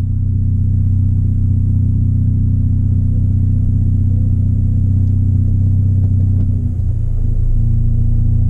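Ford Fiesta ST180's turbocharged 1.6-litre EcoBoost four-cylinder, fitted with a 3-inch Gravity Performance exhaust and ITG intake, idling steadily as heard inside the cabin, with a brief dip in the sound about seven seconds in.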